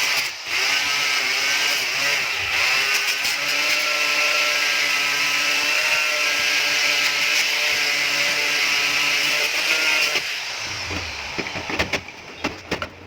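A power tool running steadily under load, working metal, stops about ten seconds in. A few sharp knocks follow near the end.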